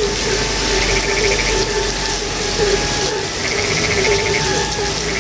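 Night chorus of frogs calling continuously, many short croaks overlapping, with a brief pulsing trill that comes back about every three seconds.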